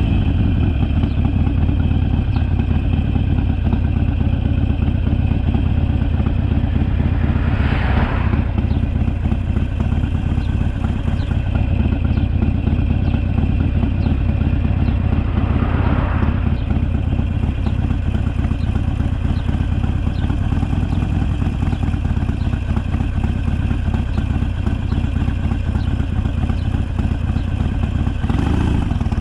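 Harley-Davidson Sportster's V-twin engine running steadily on the move, heard from on the bike, with two brief whooshing swells about eight and sixteen seconds in.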